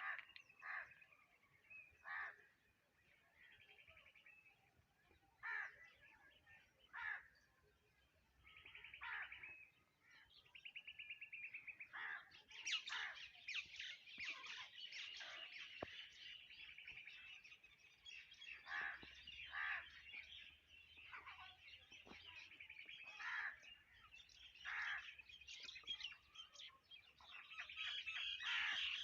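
Wild birds chirping and calling. At first there are scattered short calls and a rapid trill, then about twelve seconds in a dense chorus of many birds singing at once.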